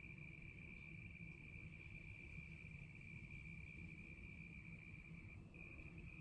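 Crickets trilling: one faint, steady high-pitched trill that breaks off for a moment about five seconds in, over a low background hum.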